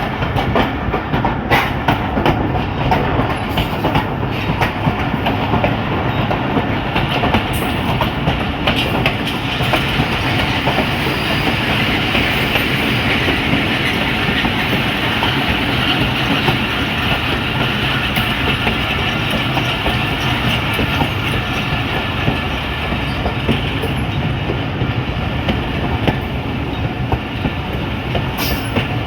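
A train running on the rails: a steady, loud rumble with the clickety-clack of wheels over the track and a few sharp clicks in the first seconds.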